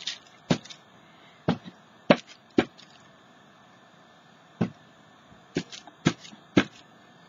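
A hand stamp tapped down repeatedly onto the canvas, about nine sharp taps at uneven intervals.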